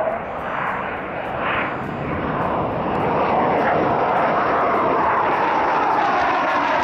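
Jet aircraft passing over, most likely the F-15 fighters: a loud, even jet rush that builds and holds steady from about three seconds in, with faint falling tones.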